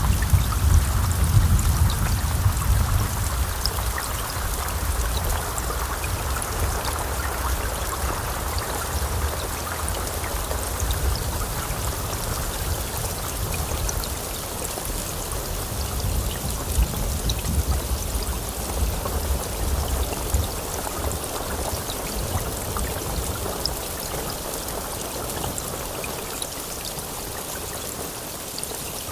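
Steady heavy rainfall, a dense hiss of falling water, with the low rumble of thunder dying away over the first few seconds.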